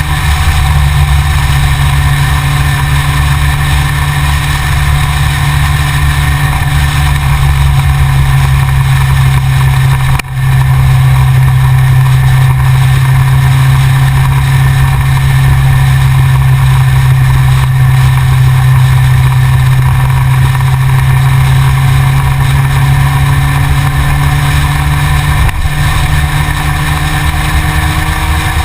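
Yamaha XJR motorcycle engine running steadily, heard from a GoPro mounted on the bike. It dips briefly about ten seconds in, and a faint rising engine note comes in near the end.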